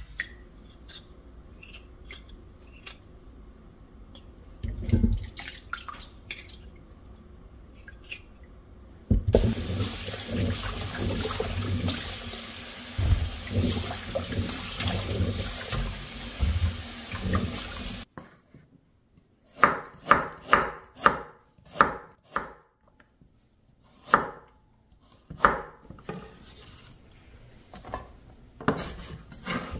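Tap water running into a sink for about nine seconds and cutting off suddenly. A run of sharp knocks and clatters follows, several in quick succession and then more spaced.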